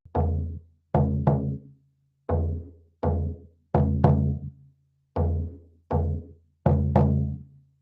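A drum beaten in a slow, steady rhythm: about eleven strikes, each a deep ringing boom that dies away before the next, the strikes falling in loose pairs.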